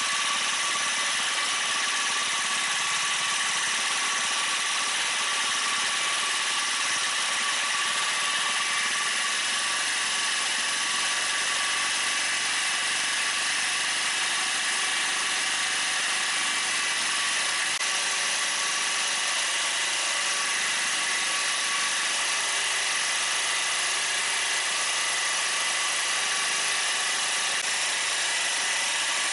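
Spider mower's large-displacement two-stroke engine running steadily, back in running order after its ignition coil was replaced.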